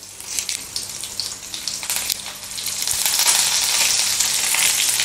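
Chopped shallots frying in hot coconut oil in an aluminium kadai, sizzling with a few sharp crackles. About three seconds in the sizzle grows louder and steadier as fresh curry leaves go into the hot oil for the tempering.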